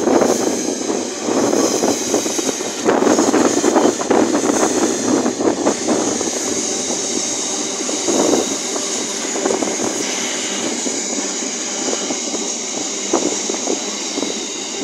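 Loaded container wagons of a freight train rolling past close by: a steady, loud rumble and clatter of wheels on rails, broken by scattered sharp clacks. It starts to die away near the end as the last wagons go by.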